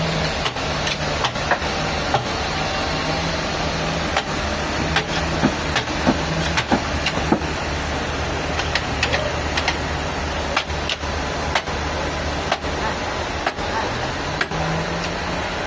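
An engine running steadily at a low pitch, with many sharp clicks and knocks scattered through it.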